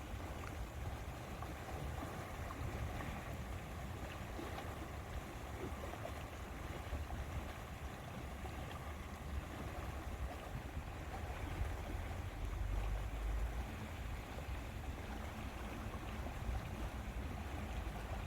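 Lake water washing steadily, with wind rumbling on the microphone that swells for a couple of seconds past the middle.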